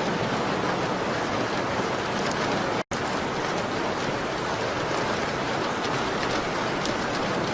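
Steady rain pattering on a window pane. The sound cuts out completely for an instant about three seconds in, then carries on.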